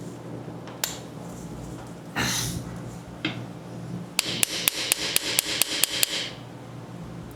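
Hammer striking metal to knock out the Sprinter's transfer case drain plug, which spins freely in stripped threads: a single knock, a short scrape, then a quick run of about nine sharp blows, roughly five a second, near the middle.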